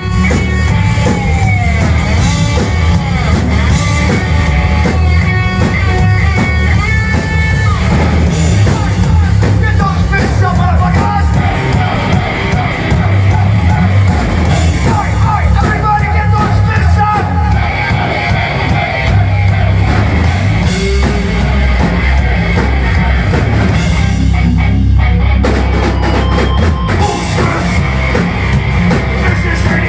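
Heavy metal band playing live, loud: distorted electric guitars and bass over a drum kit.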